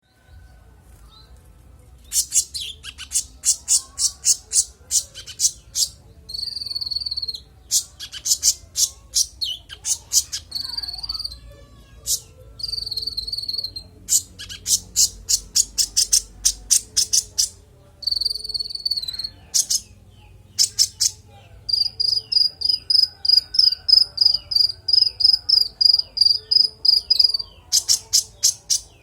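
Konin songbird singing clear, high-pitched song in bouts, starting about two seconds in. It runs through rapid strings of repeated notes and long fast trills of chirps, showing off its full repertoire.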